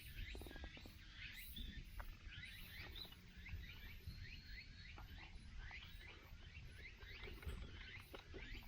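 Many small birds chirping at once: quick, repeated down-slurred chirps that overlap throughout, over a low rumble with a few faint clicks.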